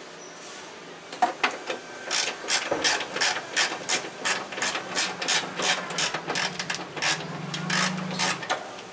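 Hand ratchet wrench clicking in a run of quick strokes, as when working a bolt loose or tight on the engine. A low steady hum sits underneath in the second half.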